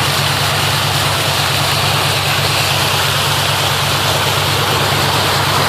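Car engine running steadily at low speed under a constant rushing hiss of floodwater being pushed aside as the car wades through it.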